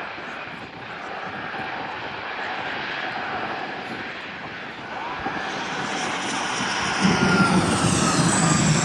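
Jet airliner engines growing louder as the aircraft approaches and passes, a rushing roar with a high whine that slides gently down in pitch, loudest in the last couple of seconds.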